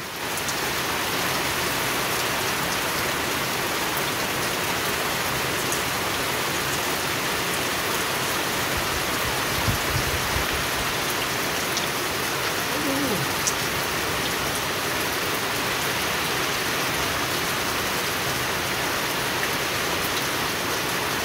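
Steady rain falling on the water of a small tiled pond and on wet stone paving, an even hiss that holds at one level throughout.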